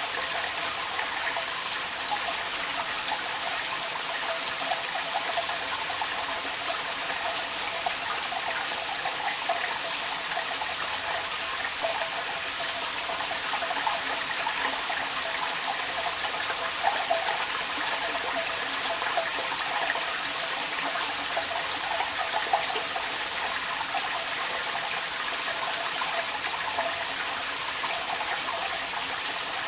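Rain with water running and splashing out of a downpipe: a steady rushing hiss with a constant gurgling trickle and a few brief louder splashes.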